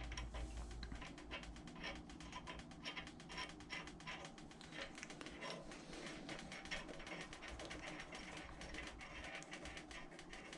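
Faint, irregular light clicks and taps of small metal parts: a rocker backing plate and its bolts being handled and threaded in by hand on a Predator 212 engine's cylinder head.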